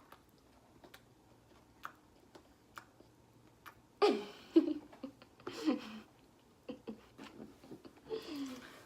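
Faint scattered clicks and crinkles of snack packaging, then a few short non-word vocal sounds from a girl, loudest about four seconds in and again near the end.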